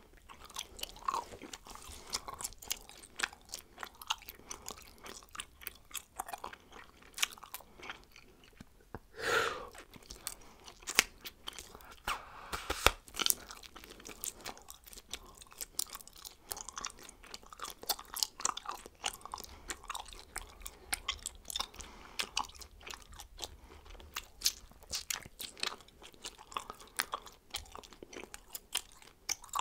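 A person chewing bubblegum close to a microphone: a steady run of short, irregular clicks, with a sharper, louder click about thirteen seconds in.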